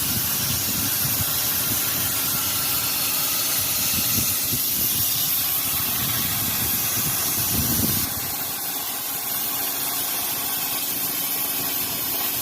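CNC plasma cutter running, its air-plasma arc a loud, steady hiss, with an uneven low rumble under it. About eight seconds in the rumble stops and the hiss carries on slightly quieter.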